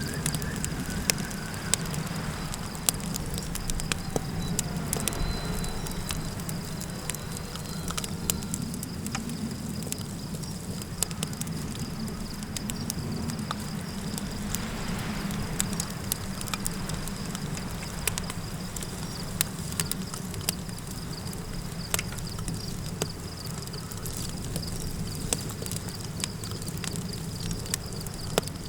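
Campfire crackling, with frequent sharp pops and snaps over a low steady rumble. A thin, steady high trill runs underneath throughout.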